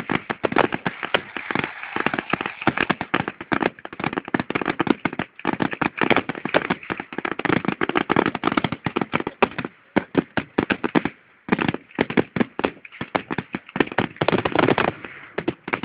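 Fireworks going off in a dense run of rapid crackling pops, with a brief pause about eleven seconds in.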